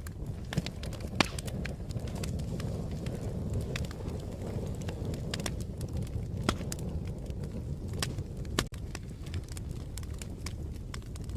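Fire crackling: a steady low rumble of burning with irregular sharp pops and snaps scattered through it.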